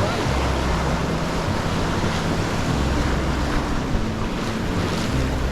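River whitewater rushing steadily, with wind rumbling on the microphone.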